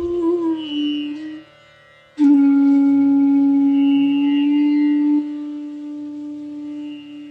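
Bansuri, the North Indian bamboo flute, playing a slow phrase over a steady drone: a note slides up and is held, breaks off briefly, then one long low note starts sharply, drops in loudness about two-thirds of the way through and fades near the end.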